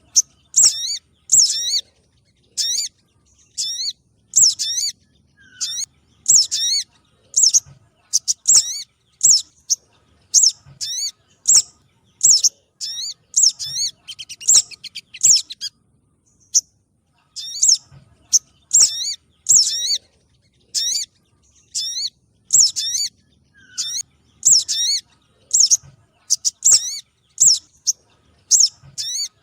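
Sogon trotol (sogok ontong trotol, a spiderhunter) calling from a lure recording: short, sharp, high-pitched chipping notes repeated about once or twice a second, with a brief pause about halfway through.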